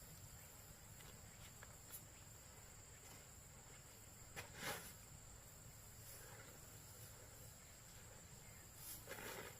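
Near silence: faint outdoor ambience with a steady high-pitched tone, broken by two short rustling sounds, one about halfway through and one near the end.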